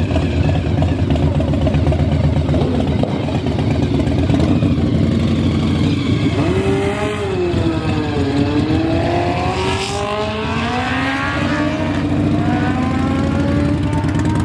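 Drag-racing motorcycle engine running loudly. About seven seconds in its pitch dips, then climbs steadily as it accelerates.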